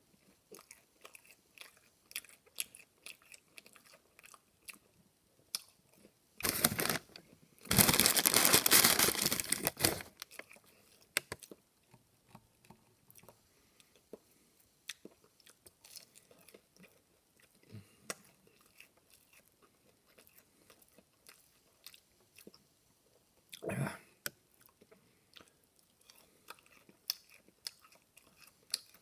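A person chewing breaded spicy chicken nuggets, with many small soft crunches and mouth clicks. Louder bursts of rustling noise come about seven seconds in, again from about eight to ten seconds, and briefly about two-thirds of the way through.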